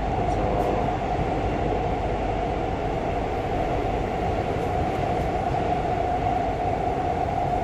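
Steady running noise of a subway train heard from inside the carriage, a constant rumble with a steady whine.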